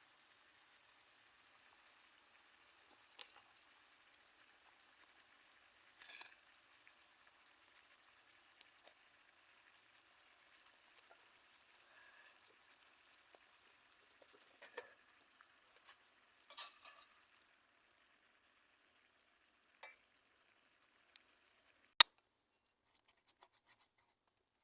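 Food sizzling as it fries in a pan, with a few knocks and clinks of a utensil against the pan. The sizzle stops about three-quarters of the way in, and a single sharp click follows shortly after.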